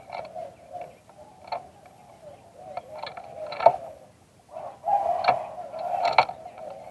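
A dove cooing in short arching notes, fuller and louder in the second half, broken by several sharp clicks.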